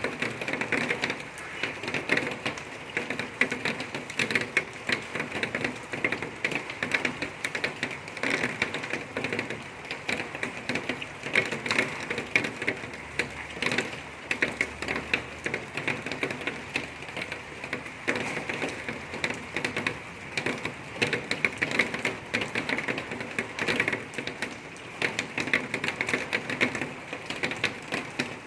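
Steady rain falling, a dense run of small drops striking a hard surface close by.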